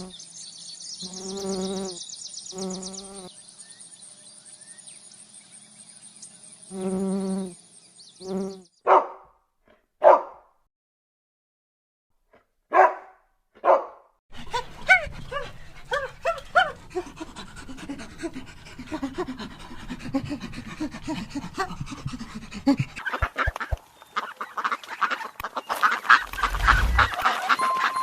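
A run of animal calls with a dog among them: repeated short calls under a high buzz, then about four single loud barks spaced apart, then a busy stretch of many short calls.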